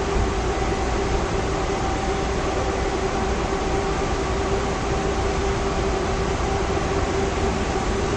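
Airport people-mover train running steadily: an even rumble with a steady hum held underneath.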